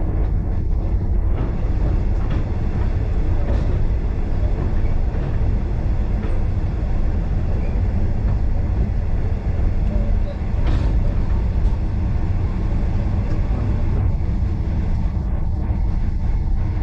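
Steady low rumble of a moving train on the rails, with a few faint clicks.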